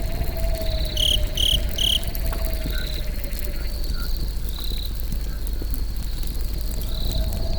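Campfire crackling with scattered small pops over a low rumble, under crickets chirping steadily. Three louder chirps come about a second in.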